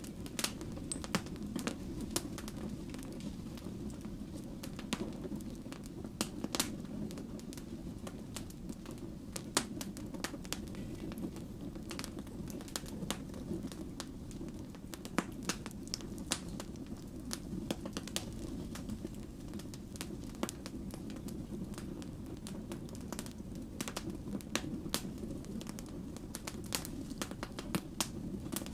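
Wood fire burning: a steady low rumble of flames with frequent sharp, irregular crackles and pops from the burning logs.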